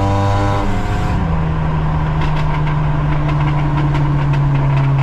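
2004 Honda Civic coupe's four-cylinder engine droning steadily under way, heard from inside the cabin. Its pitch dips slightly about a second in, then holds level. A few faint clicks come through in the middle.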